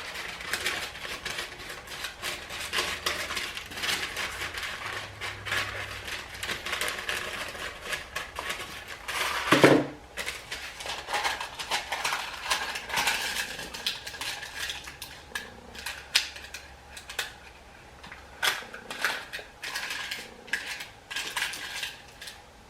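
Parchment paper crinkling and rustling as it is handled and pressed into an oiled bowl, with small clicks against the bowl. About halfway through, a brief, louder pitched sound stands out.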